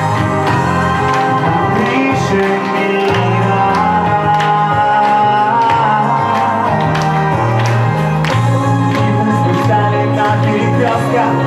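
Pop-rock song played by a live band: a steady drum beat of about two hits a second over a moving bass line and sustained keyboard or guitar notes.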